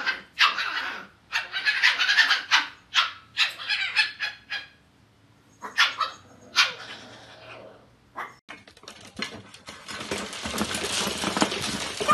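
Puppies barking and yipping in play: a quick run of short, high barks, a brief pause, then two more barks. From about ten seconds in, a dense, steady scratchy noise takes over.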